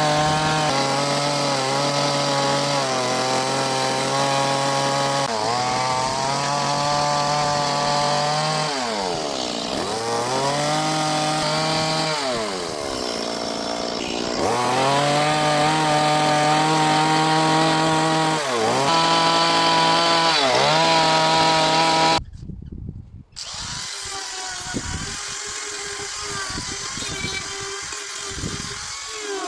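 Chainsaw cutting into wood at high revs, its engine note dipping and recovering again and again as the chain bites and is eased off. About 22 s in, it stops abruptly and a quieter, buzzing power tool takes over.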